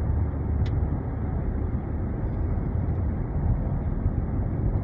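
Steady low rumble of road and engine noise inside a moving car's cabin, with one brief tick under a second in.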